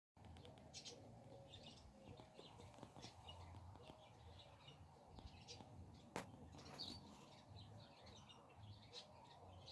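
Faint birdsong: small birds chirping over and over, with a low steady hum underneath and one sharp click about six seconds in.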